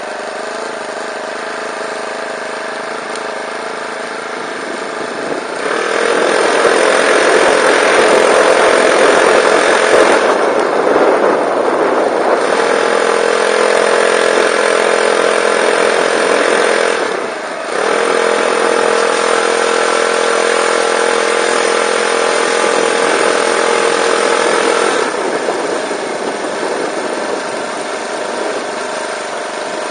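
Small Golden Eagle bike-kit engine on a recumbent trike, running steadily at low throttle. About five seconds in it is throttled up and held there. The throttle drops off for a moment near the middle, then the engine picks back up before easing down to a lower speed for the last few seconds.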